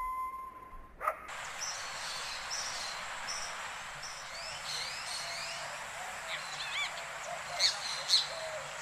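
A canine howl held on one steady pitch ends about a second in. Then a forest soundscape starts: many small birds chirp and whistle over a steady hiss, with two louder sharp calls near the end.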